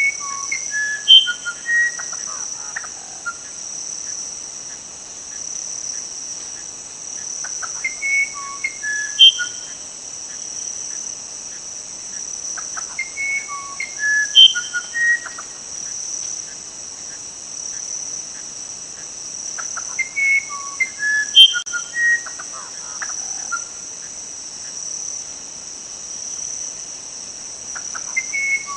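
A songbird singing a short phrase of clear, separate whistled notes that jump up and down in pitch, repeated about every six to seven seconds. A steady high-pitched insect trill, like crickets, runs underneath.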